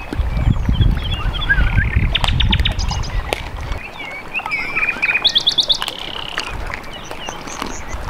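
Small birds chirping and trilling in short, quick high notes, over a low wind rumble on the microphone that drops away a little before halfway through.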